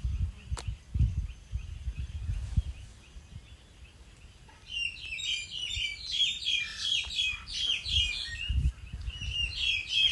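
Small songbirds chirping in quick, overlapping high notes, starting about halfway through, like a group chattering together. Before that, for the first few seconds, there are dull low thumps.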